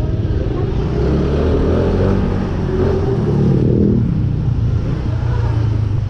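Kymco KRV 180 scooter's engine running under way, a steady low drone that picks up in pitch from about a second and a half in and eases back just before the four-second mark.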